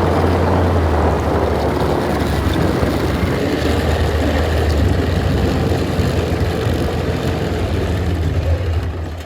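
Yamaha Viking snowmobile engine running steadily with a deep drone, dying away and stopping near the end.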